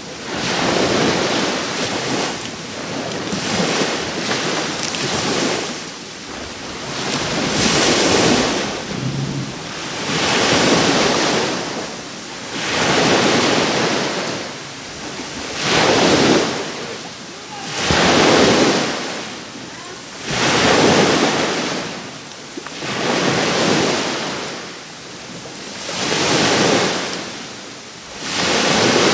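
Sea waves breaking and washing onto the shore, one surge about every two and a half seconds.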